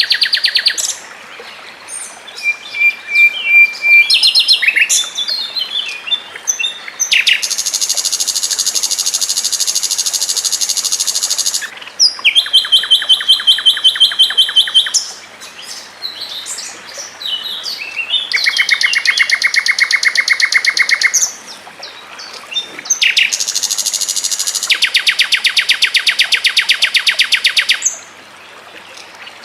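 Songbird singing a fast, dense song: long rapid trills of repeated notes lasting several seconds each, broken up by short varied chirps and whistles.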